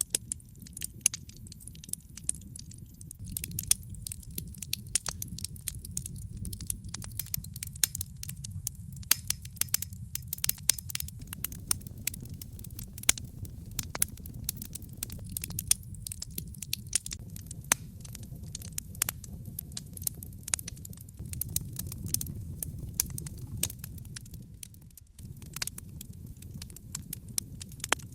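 Wood fire burning in a fireplace: dense crackling and popping of burning logs over a steady low rumble of the flames, with a brief dip in the rumble about 25 seconds in.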